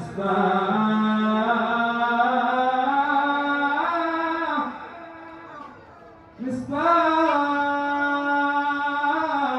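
A man chanting an Arabic mawlid recitation solo, drawing out long melismatic notes that slide and bend in pitch. About halfway through there is a pause of about two seconds, then a new long phrase begins.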